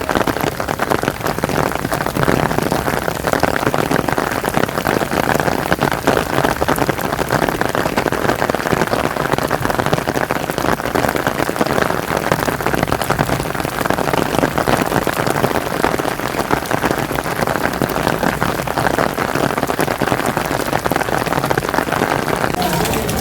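Heavy rain falling steadily, a dense patter of drops on hard surfaces.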